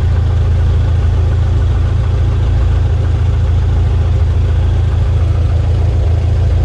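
Light propeller airplane's engine running steadily, a deep even drone.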